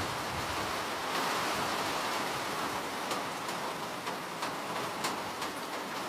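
Steady rain falling, an even hiss with scattered sharper drips and ticks of drops hitting a surface.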